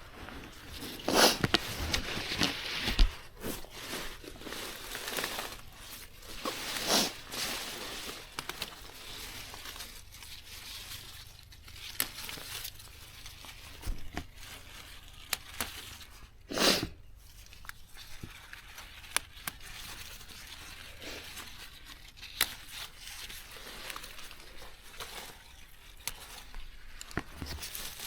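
Irregular rustling and tearing of plants being pulled and picked by hand, with a few louder tears among softer crinkling of leaves and stems.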